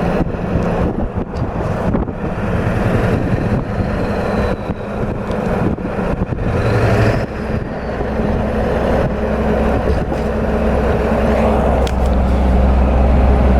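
A car on the move: steady engine and road noise, with the low rumble growing heavier about eight seconds in.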